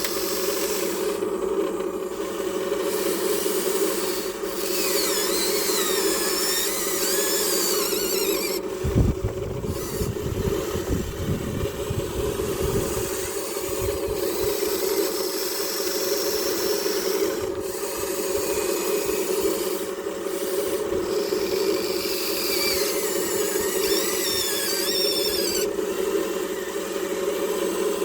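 Huina 1593 RC excavator's electric motors and gears whirring steadily as it works, with higher whining that wavers in pitch at times. A low rumble comes in for a few seconds about nine seconds in.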